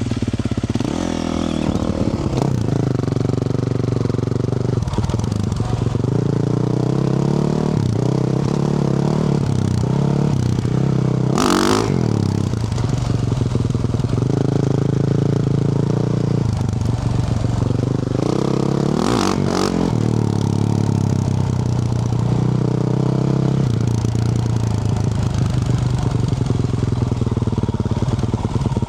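Yamaha YZ450F single-cylinder four-stroke dirt bike engine through a Yoshimura RS-12 exhaust, ridden on and off the throttle, its pitch rising and falling again and again. Two brief noisy bursts come partway through.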